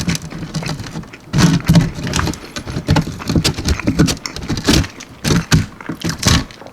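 Close-miked biting and chewing of a crispy almond-flour-breaded chicken wing: a run of quick, sharp crunches and crackles.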